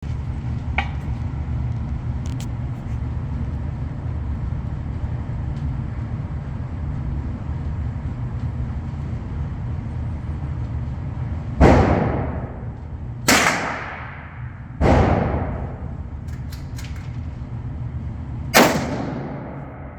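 Four shots from a Remington 742 Woodsmaster semi-automatic .30-06 rifle: three about a second and a half apart, then a fourth some four seconds later, each trailing off in an echo. A steady low rumble runs underneath.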